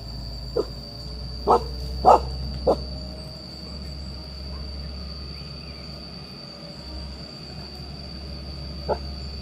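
A dog barking five short times, four in the first three seconds and one near the end, over a steady high-pitched whine.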